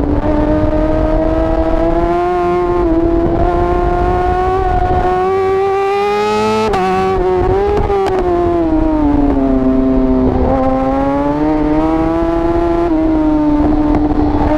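Yamaha R6 inline-four sportbike engine running hard at high revs from on board, pitch climbing slowly, with a brief sharp break about halfway through, then falling, rising again and dropping near the end, over wind rush.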